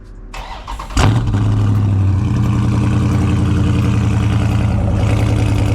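Cold start of a 2019 Dodge Charger Scat Pack's 6.4-litre 392 Hemi V8 through catless mid-pipes. The starter cranks briefly, the engine fires about a second in with a loud flare, then settles into a steady, loud idle.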